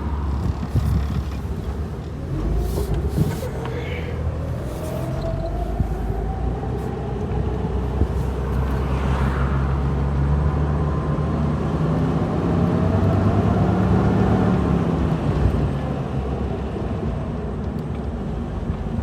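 Jeep Wrangler engine running while driving, with a whine that rises in pitch over several seconds and later falls away. The engine is surging, which the owner puts down to the engine computer relearning after a vacuum leak was fixed.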